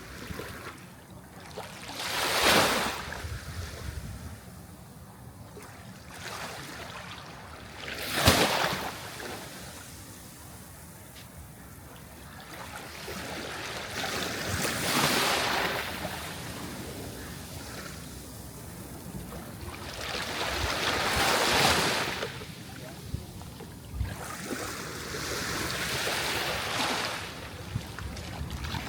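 Sea waves breaking and washing in, five surges about six seconds apart. The first two are sharp, short crashes; the later three swell and ebb more slowly.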